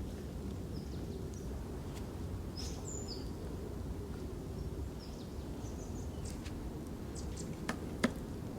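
Steady low outdoor background noise with a few faint, short high chirps scattered through it, and two sharp clicks close together near the end.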